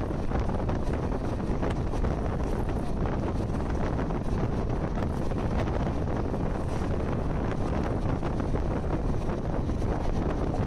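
Steady rush of wind buffeting the microphone over the running noise of a moving train, with faint rapid ticking through it.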